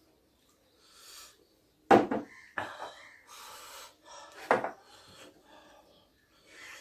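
Close-miked eating sounds: utensils knocking and clinking against a bowl or plate, sharpest about two seconds in and again about four and a half seconds in, with breathy hissing noises between.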